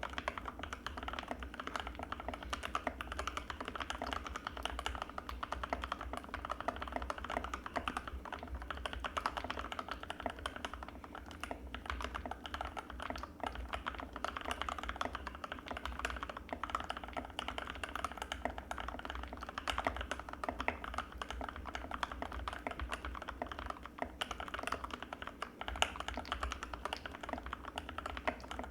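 Anne Pro 2 60% mechanical keyboard with Gateron Red linear switches, typed on fast and without a break: a dense, steady stream of keystroke clacks.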